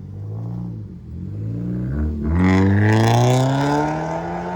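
A car accelerating hard, its engine revs climbing. The pitch drops once at a gear change about two seconds in, then climbs again and grows loud as the car pulls past.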